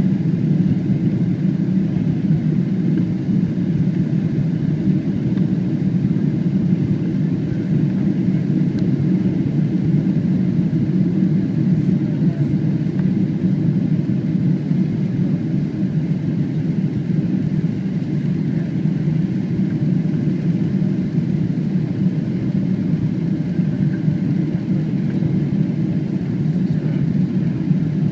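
Steady low drone of a Boeing 777's engines and rushing air, heard inside the passenger cabin.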